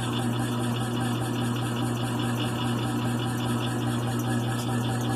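1928 USACO belt-driven air compressor running under its 220-volt single-phase electric motor: a steady, even hum with no change in pitch. It runs smoothly and quietly, its motor freshly rebuilt and oiled.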